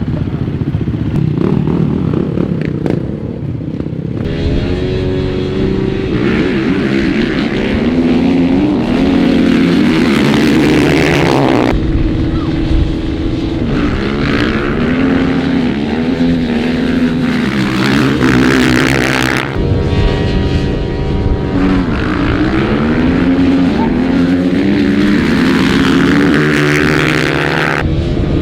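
Dirt bike engine revving hard, its pitch climbing and dropping again and again through the gears, over a rushing noise that changes abruptly several times.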